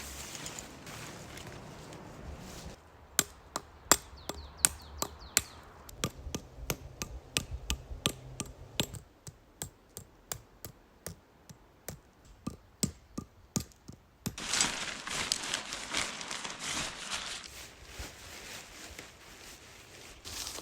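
Tent being pitched: a run of sharp, irregular knocks and clicks, about one or two a second for roughly ten seconds, then a few seconds of rustling.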